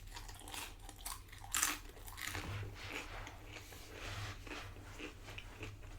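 Close-up chewing and crunching of tortilla chips from loaded nachos: a run of irregular crunches, with a louder crunch about one and a half seconds in.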